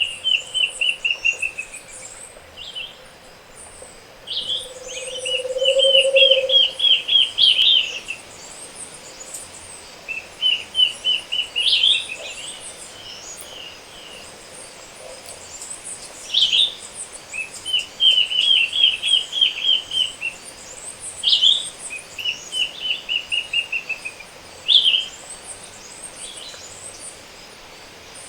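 Morning chorus of tropical forest birds: one bird repeats a quick run of notes every few seconds while other birds add higher chips and short calls. A brief low call sounds about five seconds in.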